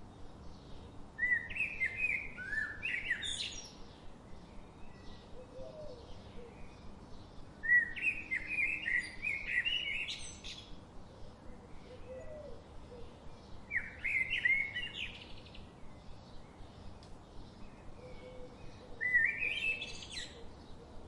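A songbird singing a short, fast phrase of chirps four times, roughly every six seconds, over fainter chirping from other birds.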